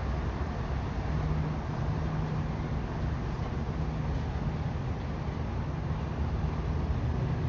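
Steady low rumble of outdoor city background noise, with a faint steady machine hum under it and no distinct events.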